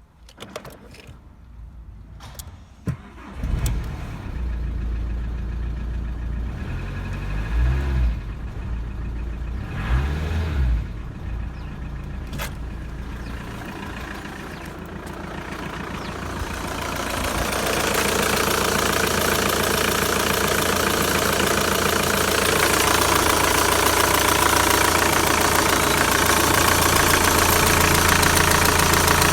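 VW Sharan 1.9 TDI (AFN) four-cylinder turbodiesel being started about three and a half seconds in, then idling with two short revs. From about sixteen seconds it climbs to a louder, steady run that is held at raised revs.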